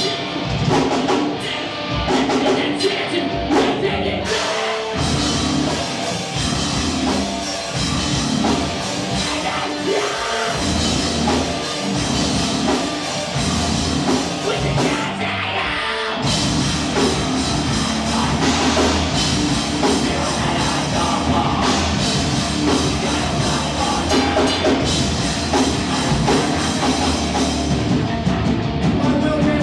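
Live heavy rock band playing its last song: drum kit, distorted guitars and bass, with vocals, all loud. The song shifts into a fuller, heavier section about sixteen seconds in.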